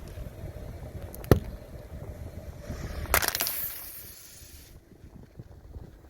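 Things crushed under a car tyre over a low rumble: a sharp crack about a second in, then a short hissing burst around three seconds in.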